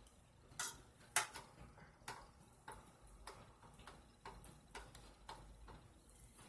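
A person chewing food close to the microphone: sharp, wet mouth clicks and smacks about every half second to second, slightly uneven in spacing.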